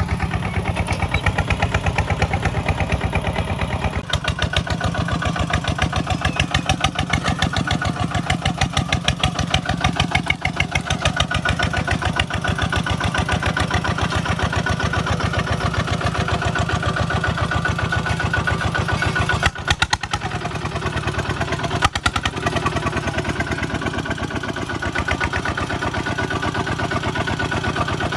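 Kubota single-cylinder diesel engine running steadily with an even, rapid chug.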